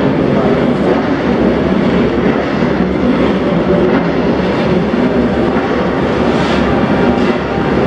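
Engines of several pre-1972 vintage racing motorcycles running at speed on the circuit, making a steady, loud mix of engine noise.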